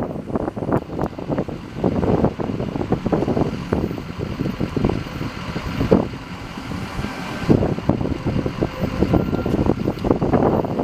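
Wind buffeting the microphone over outdoor street noise, in uneven gusts and rumbles.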